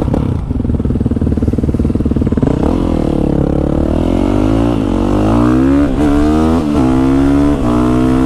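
Motorcycle engine running steadily, then pulling away about two and a half seconds in and accelerating hard. Its pitch climbs and drops back several times as it shifts up through the gears.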